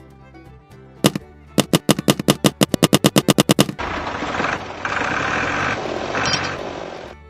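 A single sharp knock, then a rapid run of sharp knocks at about ten a second for two seconds, followed by a steady rushing hiss for about three seconds.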